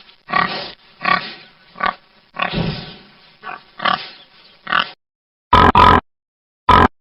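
Pig grunting, about seven separate grunts over five seconds. It then cuts off, and three short, loud calls from another animal follow near the end.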